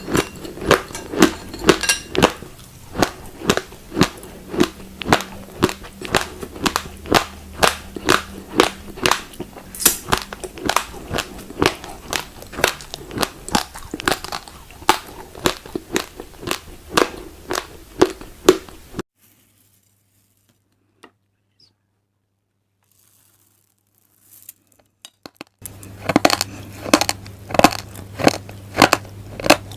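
Raw glutinous rice grains being crunched between the teeth in a steady chewing rhythm, about two to three crunches a second. The crunching breaks off for about six seconds past the middle, then starts again.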